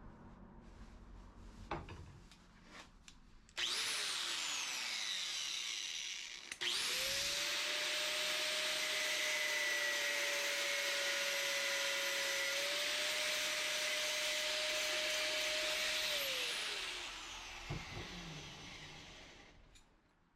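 Handheld power tool motor: a short burst that winds down, then it spins up again and runs steadily for about ten seconds with a loud hiss before winding down. A few knocks come before and after the run.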